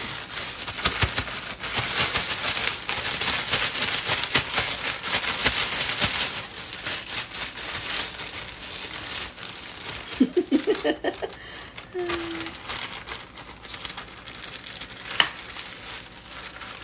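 Plastic bag crinkling and rustling as a piece of chicken is shaken in it with Shake 'n Bake crumb coating. The crinkling is most vigorous for the first six seconds or so, then goes on more softly as the bag is handled.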